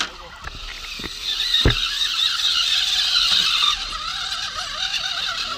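Radio-controlled rock crawler's electric motor and gearbox whining, the pitch rising and falling with the throttle, with a few knocks in the first two seconds.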